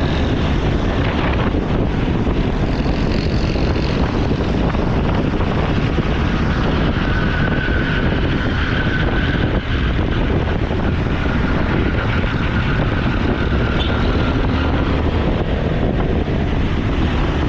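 Motorcycle on the move: steady wind rush over the microphone with the engine running underneath.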